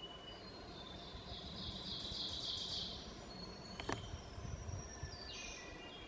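Songbirds singing in a forest: a dense, high phrase about one to three seconds in, then a run of high notes stepping down in pitch near the end. A single sharp click comes a little before the second song, over a low steady rumble.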